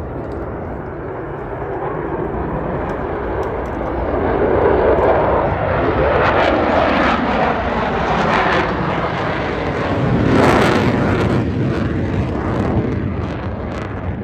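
Thunderbirds F-16 fighter jets flying past. The jet noise builds over several seconds, peaks with a crackle about ten seconds in, then begins to fade.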